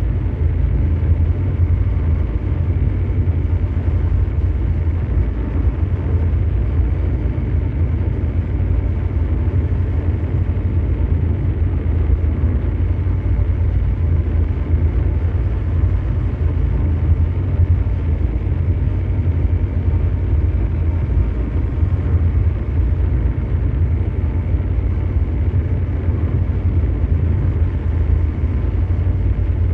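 Ambient mechanical drone: a steady, deep hum over a wash of brown noise, strongest in the bass and unchanging throughout.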